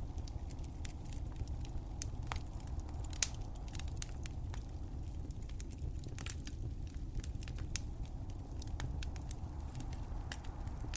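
Wood fire crackling: irregular sharp pops and snaps over a steady low rumble of burning, with one louder pop about three seconds in.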